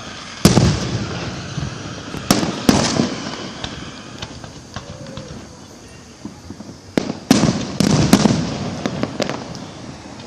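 Fireworks going off in a series of sharp bangs, each trailing into a rumbling echo. One comes just after the start and two come a couple of seconds later; after a lull with small pops, a quick cluster of three or four bangs comes about seven seconds in.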